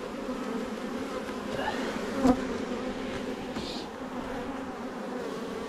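Honeybees buzzing in a steady drone around an opened hive, with one sharp knock a little over two seconds in.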